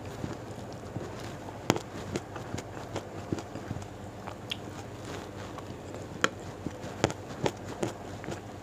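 Close-miked chewing and mouth smacks while eating rice and raw vegetables by hand, with irregular sharp clicks and crackles, three of them much louder than the rest.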